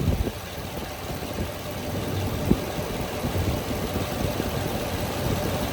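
Chevrolet Vortec gas V8 engine in a heavy-duty pickup idling steadily. The owner says it shows no blow-by and no exhaust leaks can be heard.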